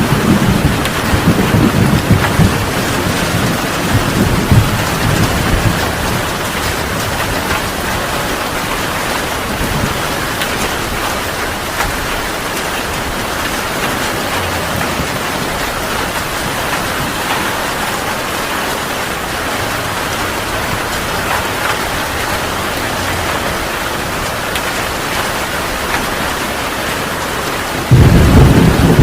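Heavy rain falling steadily in a thunderstorm. Thunder rumbles and fades over the first few seconds, and a fresh loud rumble of thunder breaks in near the end.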